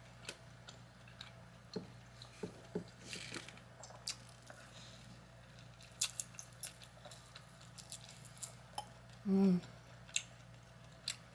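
Close-up eating sounds of a person chewing steak: scattered wet mouth clicks and smacks, with a short hummed "mm" about nine seconds in.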